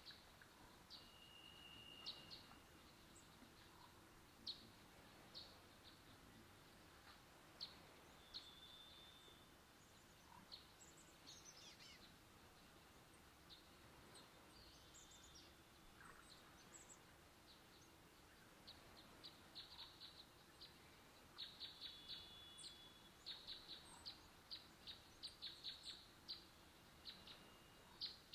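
Faint forest birdsong: scattered high chirps and a few short whistled notes, one sliding downward, then a fast run of repeated chirps that grows denser over the last several seconds.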